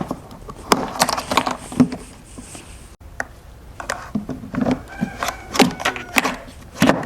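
Irregular clicks, taps and knocks of parts being handled in restoration work, with a short squeak about five seconds in.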